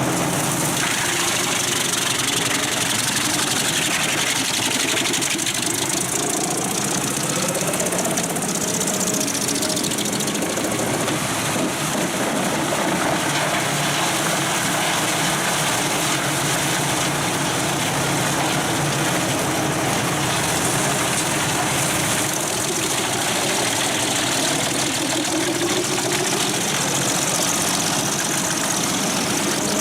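Pezzolato PTH 1400/1000 Allroad self-propelled drum wood chipper working under load: its 700 hp Volvo diesel engine running hard while the steel drum chips logs, a loud, steady, unbroken din of engine and grinding wood.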